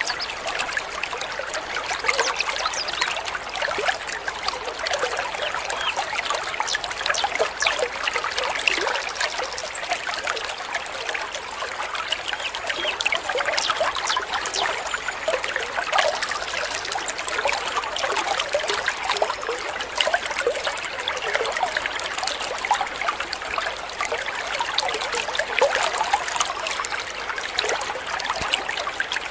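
Shallow stream of water babbling and trickling steadily, with many small splashes and gurgles.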